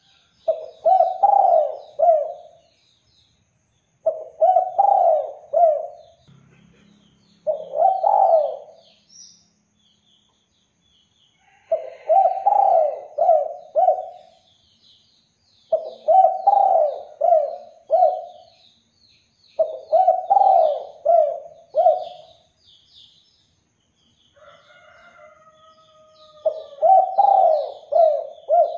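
Spotted dove (derkuku) cooing: about seven phrases of three or four low coos, one every few seconds, with faint chirps of small birds higher up.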